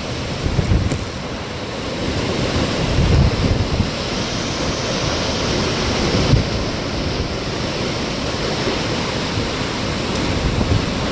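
Hurricane-force wind, a steady rush with irregular gusts buffeting the microphone.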